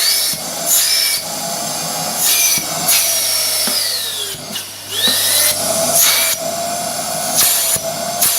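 Household vacuum cleaner running, its motor's tone wavering as the airflow changes, with loud rushing hiss and whistling at the intake coming and going several times. It is pulling strong suction again now that its clogged hose and filter have been cleaned.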